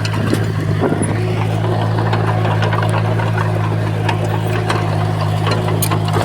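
Bulldozer diesel engine running with a steady low drone, with scattered metallic clanks and clicks over it.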